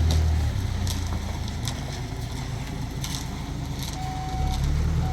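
A vehicle engine running: its low hum eases off about half a second in and picks up again near the end. There are a few sharp knocks along the way and a short beep near the end.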